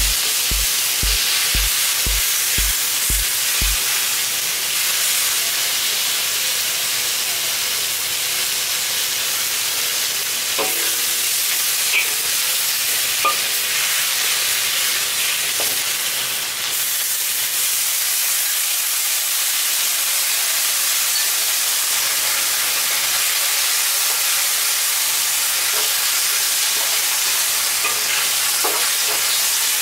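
Sliced onions sizzling as they fry in a wok, stirred with a metal spatula that clicks and scrapes against the pan now and then. A low pulsing thump about twice a second runs through the first few seconds, then stops.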